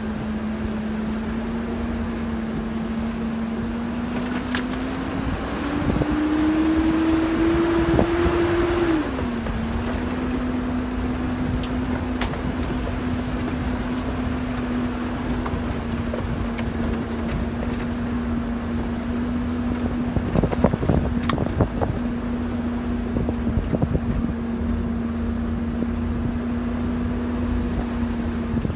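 Chevrolet Tahoe's engine running steadily while driving slowly on a rough dirt road. It revs up for a few seconds about a fifth of the way in, then falls back to its earlier steady note. Scattered knocks and rattles from bumps are heard, with a cluster of them later on.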